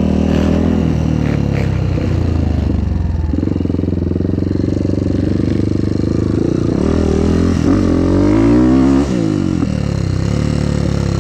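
Motocross bike's engine running under way on the road; about three-quarters through it revs up with a rising pitch, then drops suddenly as the rider shifts up.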